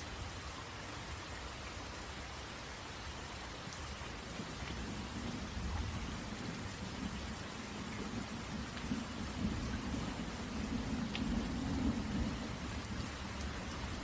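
Steady rain falling on a tent, with a long rolling rumble of thunder that builds from about four seconds in and is loudest near the end.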